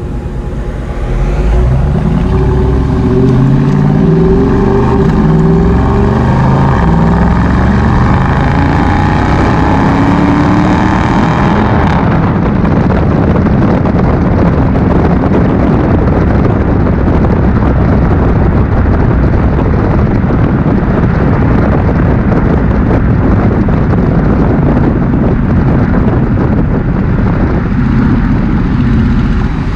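Dodge Challenger R/T's HEMI V8 running through a Mopar cat-back exhaust under acceleration, loud, its pitch climbing for about the first twelve seconds. It then settles into a steady, dense drone for the rest.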